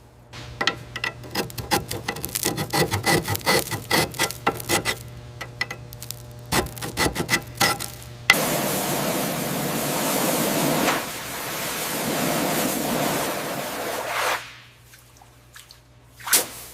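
Rapid, irregular scraping strokes on a rusty surface, followed about eight seconds in by a steady hissing spray of water that lasts about six seconds and then stops.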